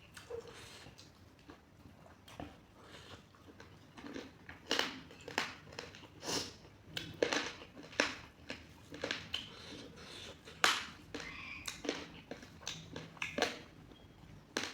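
A person chewing and crunching food close to the microphone, with irregular crunches that come more often and louder from about four seconds in.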